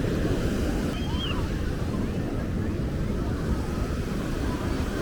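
Ocean surf breaking on the beach, mixed with heavy wind rumble on the microphone; a short high whistle sounds about a second in.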